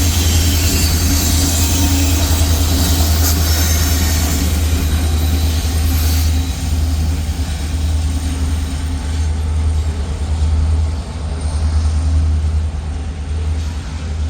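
Freight cars of a grain train rolling past: a steady, heavy low rumble with wheel-on-rail noise. The higher hiss of the wheels dies down about six seconds in.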